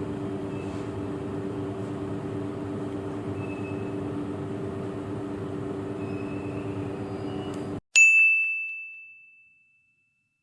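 Jakarta MRT train cabin hum, a steady low drone with two low tones while the train runs. About eight seconds in it cuts off abruptly, and a single high bell-like ding rings out and fades over about a second and a half against silence.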